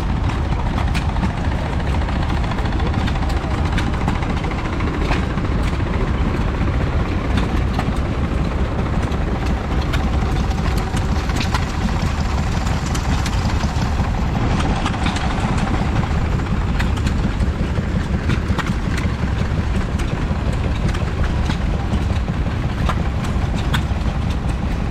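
Vintage stationary engine running steadily, a constant low rumble with many short sharp ticks over it.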